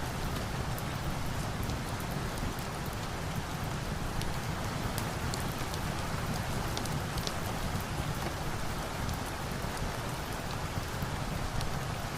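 Steady rain falling, an even hiss with scattered sharp ticks of drops or crackles through it.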